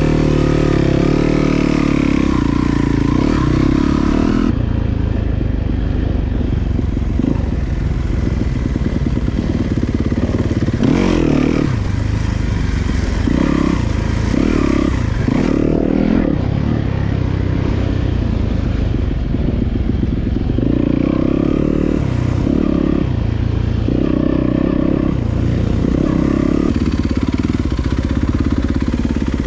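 Dirt bike being ridden on a trail, its motor note rising and falling again and again with the throttle.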